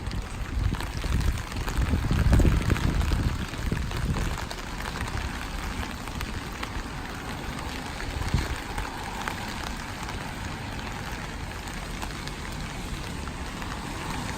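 Steady rain falling, an even hiss of drops. A low rumble swells from about a second and a half in to about four seconds in, the loudest part, and there is a single sharp tap near the middle.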